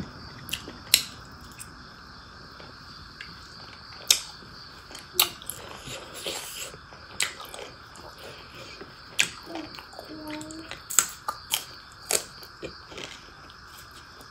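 Close-miked eating of rice and pork curry by hand: soft chewing with about a dozen sharp, irregular mouth clicks and smacks.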